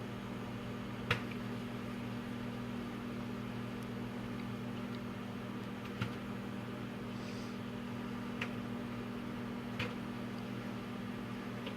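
Microwave oven running with a steady hum while dry popcorn kernels pop inside it: a handful of sharp, scattered pops a few seconds apart, the loudest about a second in. The popping is still sparse, with only single kernels bursting.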